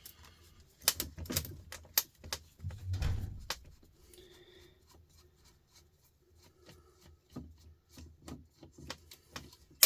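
Hand-dismantling clatter: a screwdriver working Phillips screws out of a power tool's plastic casing, with scattered clicks, knocks and rubbing. A dull thud about three seconds in and one sharp, loud click near the end.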